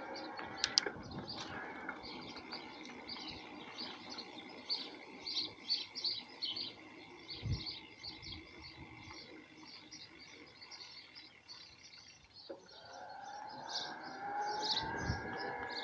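Small birds chirping, many short calls a second. From about two-thirds of the way in, a rising whine of an approaching vehicle grows steadily louder.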